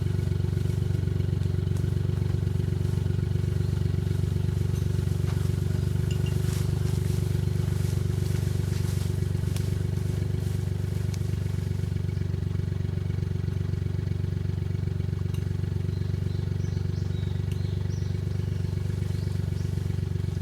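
Suzuki Jimny JA11's engine idling steadily, with a few light clicks and knocks in the middle.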